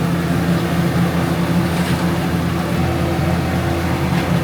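Steady low mechanical hum, like a motor or fan running, over a haze of background noise.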